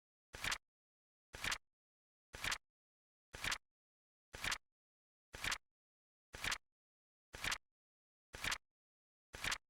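Flip-clock countdown timer's tick sound effect: a short double click, a soft one and then a louder one, about once a second and perfectly regular.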